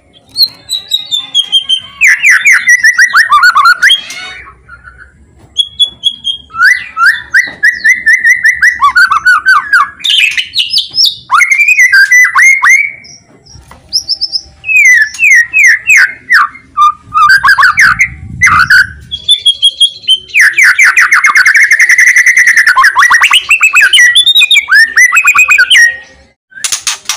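White-rumped shama (murai batu) singing loudly: phrases of clear whistles and fast trills of repeated downward-sweeping notes, separated by brief pauses.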